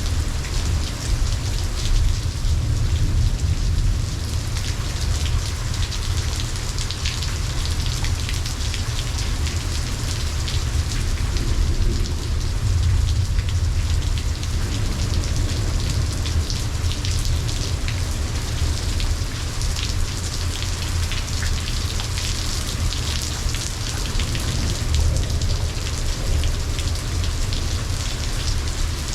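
Steady rain falling and pattering on surfaces, with a continuous low rumble underneath that swells slightly a little before halfway through.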